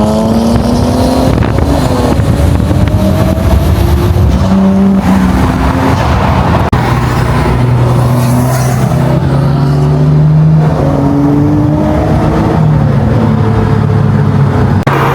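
Nissan Skyline engines running hard on the road, the engine note climbing in pitch again and again as the cars accelerate, with a steadier low drone for a few seconds near the middle.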